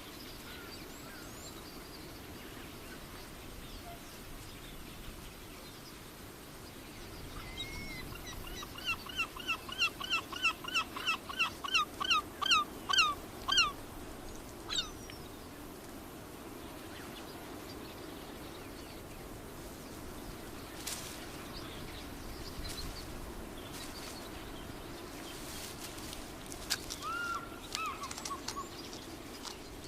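A bird calling a quick run of about fifteen sharp, repeated chirps, roughly three a second, growing louder before stopping. Fainter single calls come near the end, over a steady low outdoor background noise.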